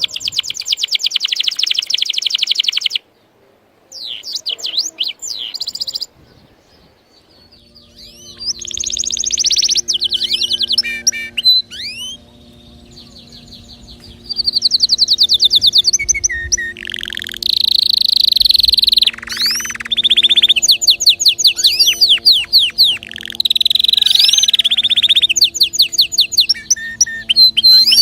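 Domestic canary singing: long runs of rapid, repeated trills and rolls, broken by a couple of short pauses. A faint, steady low hum sits underneath from about a third of the way in.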